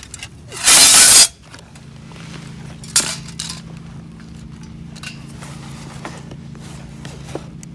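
A loud, brief rustling burst about a second in, followed by a sharp click and a few light clinks of gear being handled, over a steady low hum.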